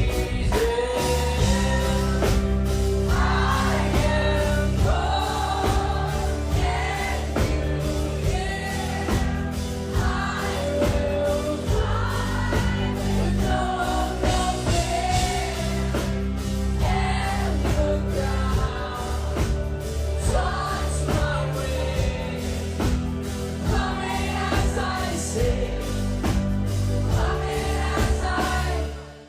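Live rock band playing, with sung vocals over bass and drums, loud and steady. The music cuts off abruptly at the very end.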